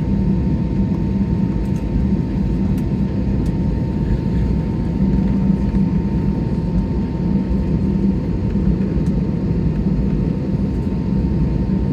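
Steady drone of an airliner's jet engines and cabin air heard inside the cabin while the plane is on the ground waiting to take off, with a thin steady whine over the low rumble.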